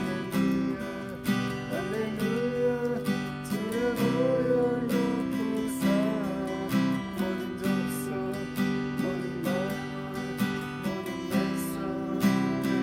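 Acoustic guitar strummed in a steady rhythm under a sung melody: a gospel praise song.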